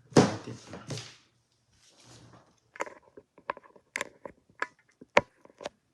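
Close handling noise: a brief rustle, then about a dozen sharp, irregular clicks and taps.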